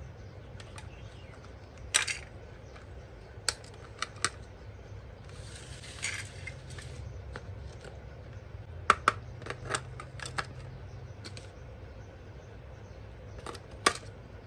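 Hard plastic toy parts and packaging being handled: scattered sharp clicks and taps, with a brief rustle about six seconds in, over a low steady hum.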